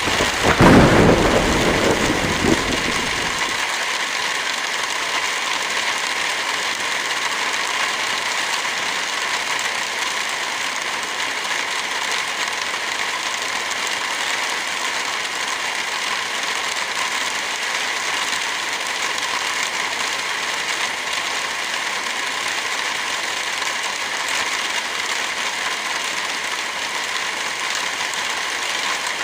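Steady, dense rain hiss with a crackling fire mixed in; a low rumble of thunder swells about half a second in and dies away within three seconds.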